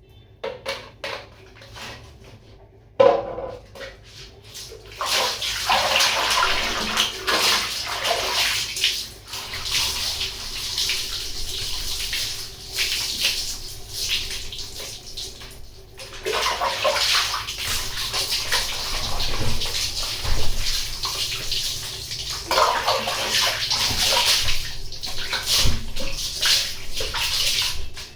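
Water pouring and splashing over a dog during its bath. It starts about three seconds in, breaks off briefly about halfway through, then runs again.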